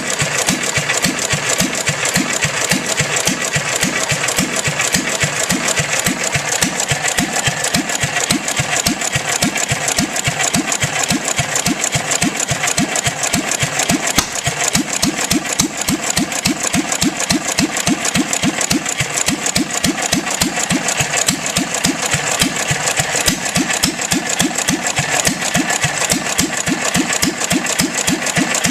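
1 1/2 HP International Harvester Type M single-cylinder stationary gas engine, throttle governed, running steadily with an even beat and no skipped strokes. It is running on gasoline poured straight into the carburettor, because the fuel pump is missing its plunger.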